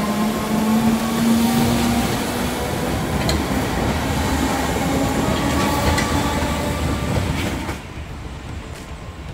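Merseyrail electric train passing close by over a level crossing: a steady rumble of wheels on rail with a motor whine that rises slightly over the first couple of seconds. The sound drops sharply near the end.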